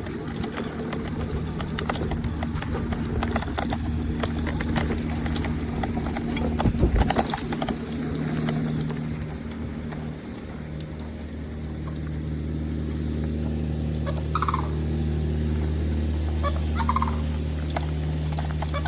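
Turkey gobbling in short calls, twice near the end, over a steady low hum.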